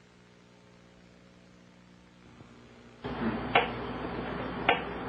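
A faint electrical hum fades in. About three seconds in it gives way to a louder hiss with sharp clicks about once a second: the pulsing of a Soviet LIDA machine.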